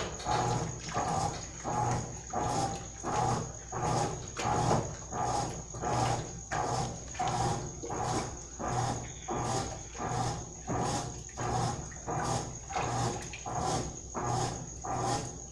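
Mabe Multipratica top-load washing machine agitating a small load: the motor hums in regular pulses as the agitator swings back and forth, about three strokes every two seconds.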